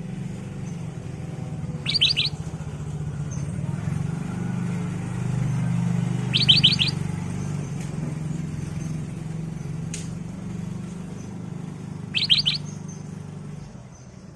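Black-crested bulbul (kutilang emas) calling three times, each a quick burst of three or four high notes. A steady low hum runs underneath and fades out near the end.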